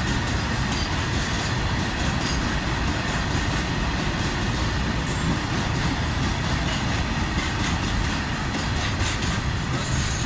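BOXNHL wagons of a goods train rolling past on the rails at speed: a steady rumble of wheels on track with rattling and a few brief high wheel squeaks.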